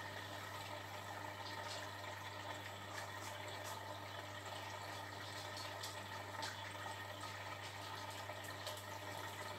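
Beko WTB740E1W washing machine refilling with water after a short spin: a faint, steady rush of water running into the machine.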